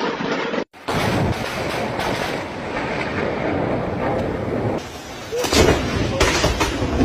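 Thunderstorm: heavy rain with rolling thunder, and a louder clap of thunder about five and a half seconds in.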